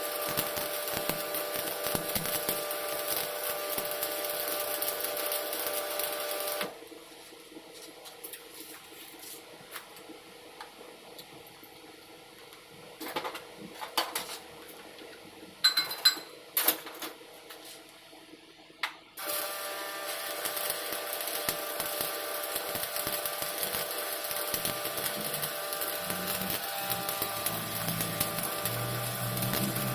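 Shielded metal arc (stick) welding arc on carbon steel pipe: a steady crackling sizzle that stops abruptly about seven seconds in, is followed by a quieter gap with a few sharp clicks and taps, and restarts suddenly about nineteen seconds in.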